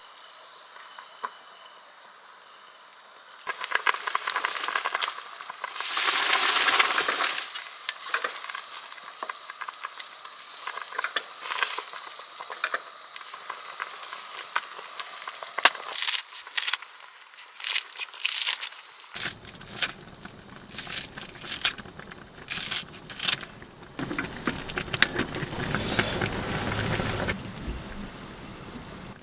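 Cooking sounds: a steady steamy hiss with clicks and rattles of cookware, in short cut-together stretches. The hiss swells loudest for about a second near a quarter of the way in, and the clicks come thick in the second half.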